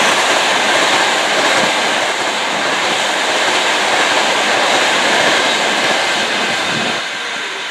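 A train passing at speed on the fast lines: a loud, steady rushing noise that eases off about seven seconds in.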